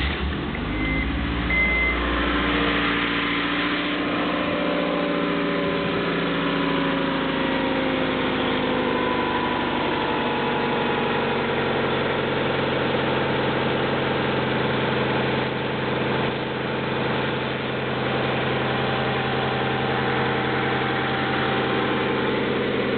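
Honda F22 2.2-litre four-cylinder SOHC VTEC engine of a 1995 Accord EX catching on a cold start and running at a fast idle that slowly drops over the first several seconds, then idling steadily and smoothly.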